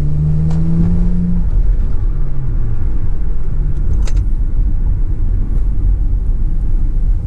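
Hyundai Azera V6 with its rear mufflers removed, driving: the engine note climbs in pitch for the first second and a half under throttle, then drops away as it eases off and settles into a steady low drone.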